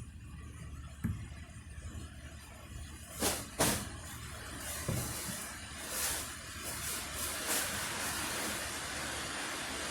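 A vehicle running in heavy rain: a steady low rumble with a few sharp knocks and short hisses, and the rush of rain growing louder near the end.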